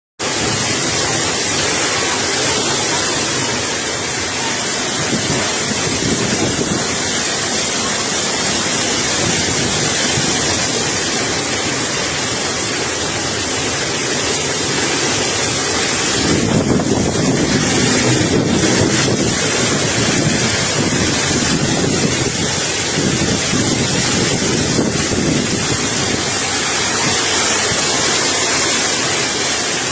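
Strong gusty wind rushing steadily and buffeting the microphone, with a stronger gust about sixteen seconds in.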